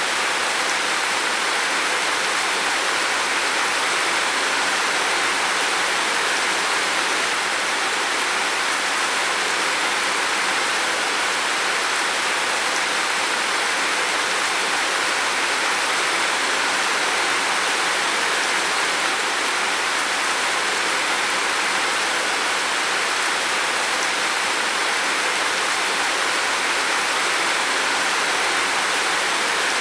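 Heavy rain falling on a roof: a dense, steady hiss with no separate drops standing out.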